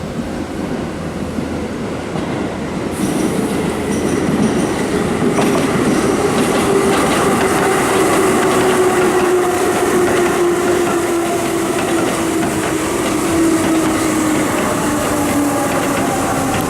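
Keihan electric train running through the station: a motor whine slowly falling in pitch over several seconds, with clicking of the wheels over the rails. The sound grows louder about three seconds in and stays loud.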